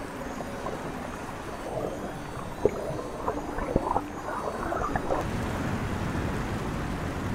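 Rushing water with a burst of bubbling and gurgling in the middle, including two sharp clicks.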